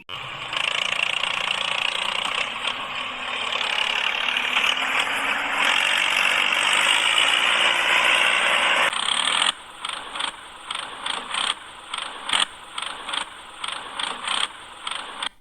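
A small motorised mechanism runs with a steady whirr for about nine seconds, then stops abruptly. It is followed by a string of irregular light clicks and taps.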